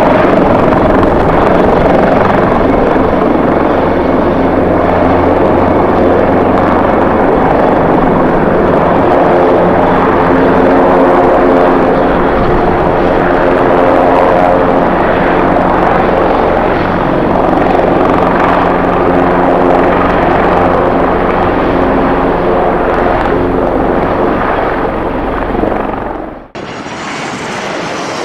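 Jet airliner engines running loud and steady, with a whine of several held tones over a rumble and buffeting wind. About 26 seconds in the sound cuts off abruptly and a different, brighter sound takes over.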